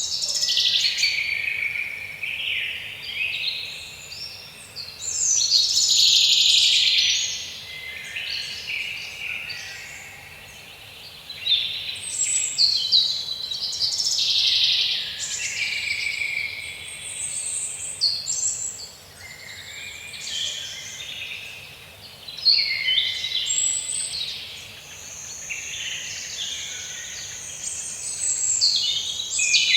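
A chorus of many birds singing and calling at once, overlapping trills and chirps that swell and fade in waves. Near the end a steady high note holds under the calls.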